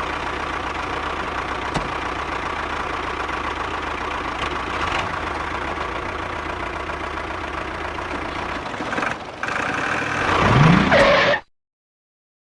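A mini tractor's engine running steadily, then cutting off abruptly about eleven seconds in.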